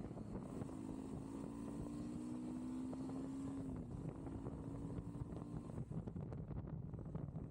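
Motorcycle running at steady road speed, with heavy wind buffeting the camera microphone; a steady engine tone holds for the first few seconds, dips slightly and fades out about two seconds before the end.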